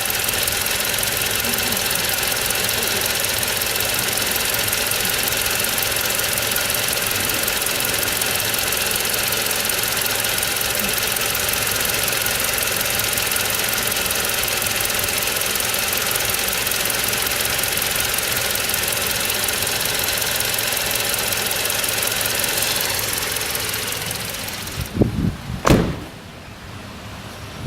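Toyota HiAce 2.7-litre four-cylinder petrol engine running steadily, then dying away as it is shut off, followed by two sharp knocks.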